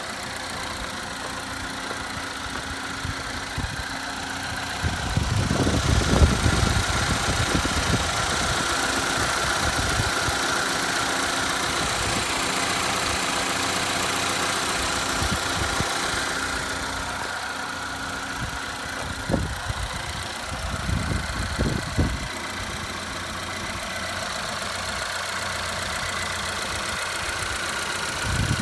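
A 2013 Chevrolet Equinox's 2.4-litre four-cylinder Ecotec engine running at idle, steady and even. It grows louder from about five seconds in and eases back around sixteen seconds, and a few dull low thumps come near the end.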